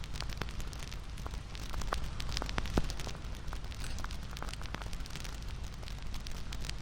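Wood fire crackling, with many irregular sharp pops over a steady low rumble and one louder pop about three seconds in.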